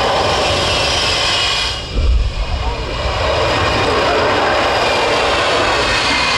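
Jet engines of the Shockwave jet truck, a Peterbilt semi fitted with three Pratt & Whitney jet engines, running steadily with a high whine over the noise, while the truck lays down smoke. About two seconds in the sound dips briefly and a short low rumble breaks in.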